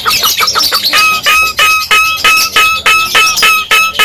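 Javan myna calling loudly: a quick run of clicks, then about a second in a regular string of short, even-pitched notes, roughly three a second.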